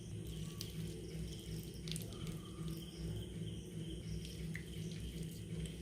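Yogurt being added to raw chicken pieces in a bowl: faint wet sounds and a few light clicks of the spoon, over a low steady hum.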